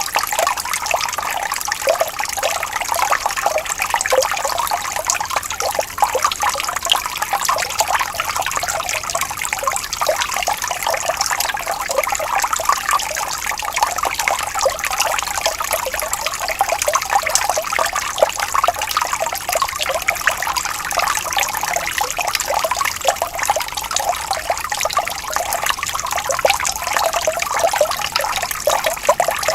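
Water flowing gently and trickling steadily, a continuous babbling with fine splashy flicker and little low end.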